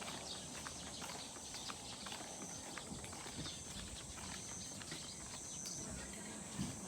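Scattered light clicks and knocks at an irregular pace, over a steady high-pitched hiss.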